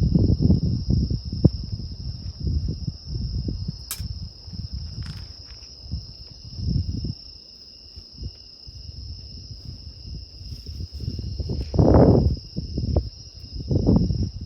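Insects trilling steadily at a high pitch, with irregular low gusts of wind buffeting the microphone that swell loudest near the end.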